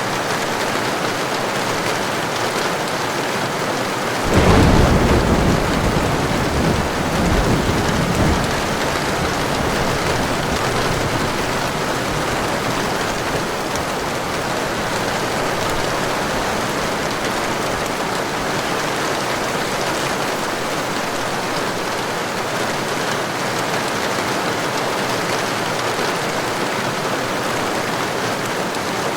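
Heavy rain falling steadily, with a thunderclap about four seconds in that rumbles on for around four seconds before the rain carries on alone.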